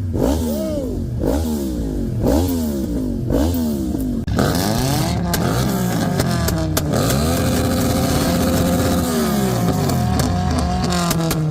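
A car engine being revved hard: quick blips of the throttle, each rising and falling, for about the first four seconds, then a longer, held rev that sags and climbs again, with sharp crackles from the exhaust running through it.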